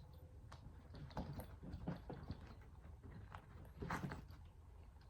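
Faint clicks, light knocks and rustling as small hand tools are handled and taken out of a tool bag, with a slightly louder knock about four seconds in.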